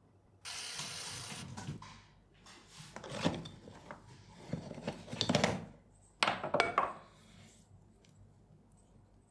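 Pottery tools and objects being handled at the wheel. A brief hiss comes first, then rubbing and clattering, and a few sharp knocks near the end.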